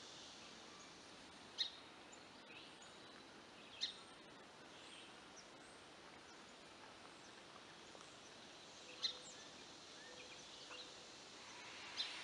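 Faint outdoor background hiss with short, high bird chirps every few seconds.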